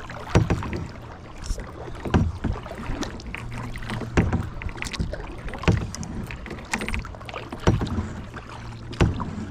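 Kayak paddle strokes: the blades dip and splash into the lake water in a steady rhythm, about one stroke every one and a half to two seconds.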